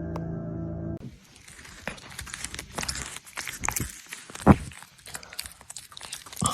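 Soft ambient music cuts off about a second in. Then come irregular rustling and crinkling with light knocks, and one sharp thump about four and a half seconds in.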